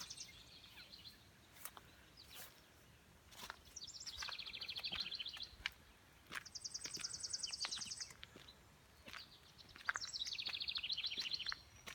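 Songbirds singing: three rapid trilled song phrases, the middle one pitched higher than the other two, with short chirps between them.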